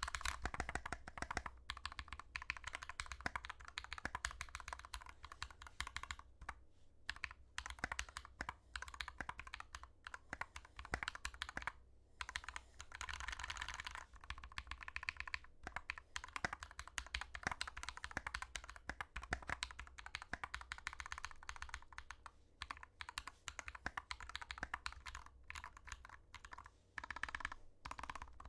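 Fast typing on a custom GK61x 60% mechanical keyboard fitted with lubed Glorious Panda tactile switches, a dense run of key clicks with short pauses. A steady low hum lies underneath.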